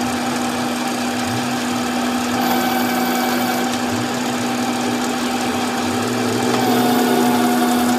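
A workshop machine's motor running steadily, a constant hum over a dense mechanical hiss that grows louder twice, briefly about two and a half seconds in and again near the end.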